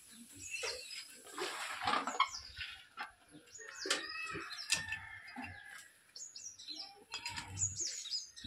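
Birds chirping, with short falling chirps clustered near the end, over scattered knocks and clatter.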